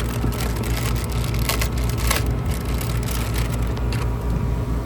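Steady low hum of running air-conditioning equipment, with light clicks and taps here and there as wires and tools are handled at the unit's control board.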